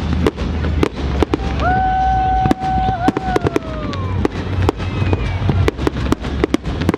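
Fireworks display: rapid crackling bangs of bursting shells over a deep rumble. A steady whistle comes in about a second and a half in, then slides down in pitch and fades out around four seconds.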